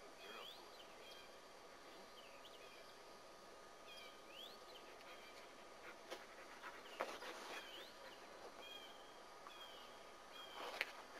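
Faint bird chirps, short and gliding in pitch, repeating every second or so. A few brief knocks come around six to seven seconds in, with another near the end.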